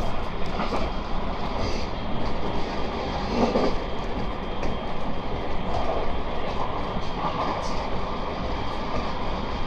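Running noise of a JR West 223 series 2500 subseries electric train at speed, heard from inside the passenger car. A steady rumble of wheels on rail with a few brief louder rattles.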